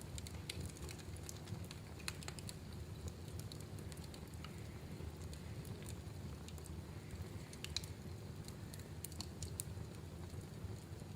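Wood fire in a fireplace crackling: irregular sharp pops and snaps over a steady low rush of the burning fire, with one louder snap a little under eight seconds in.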